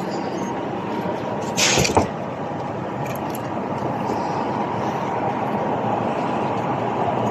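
Steady background noise with no clear pitch, with a brief rushing sound and a sharp click about two seconds in.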